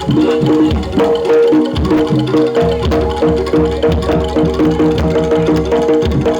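Live jaranan ensemble music: Javanese drums and tuned gongs or metallophones playing a busy, repeating pattern, with one pitched note held steadily from about two seconds in until near the end.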